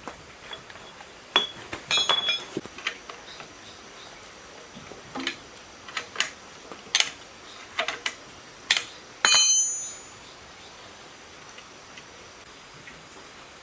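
Metal tools and parts clinking as they are handled and set down: about a dozen sharp clinks at uneven intervals, then a louder clank about nine seconds in that rings briefly.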